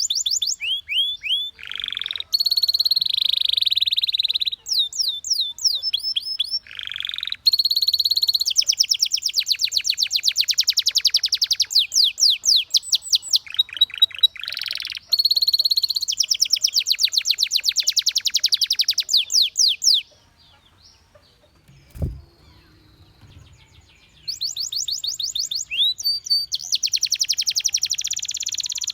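Domestic canary singing: long, fast trills of rapidly repeated notes mixed with rising whistled sweeps and rolls. The song breaks off for about four seconds about two-thirds of the way through, with a single low thump in the pause, then starts again in fast trills.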